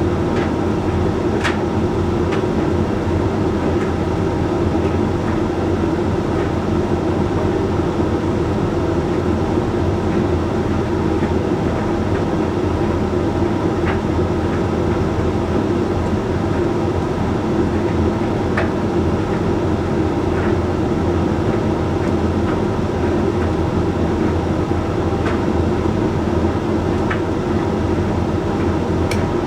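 Hoover Link X Care HLX C10DRGR condenser tumble dryer running steadily mid-cycle, its drum turning and its motor and fan humming, with a few light ticks scattered through.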